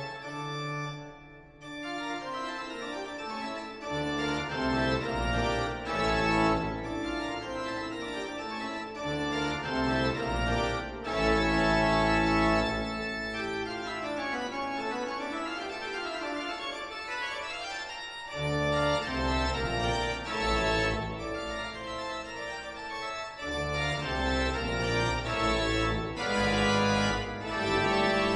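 Organ music: sustained organ chords and moving lines over a deep bass, with a short break about two-thirds of the way through.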